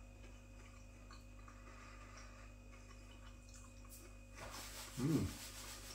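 A man chewing a battered halloumi fry with his mouth closed: faint soft ticks and squishes. About five seconds in comes one short hummed voice sound.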